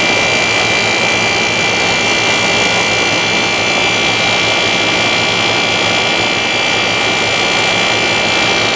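Vintage air conditioner running steadily, its condenser fan blowing air and its rotary compressor humming, with a steady high whine over the rush of air. It runs hot, which the owner says is simply how this unit operates and not a fault.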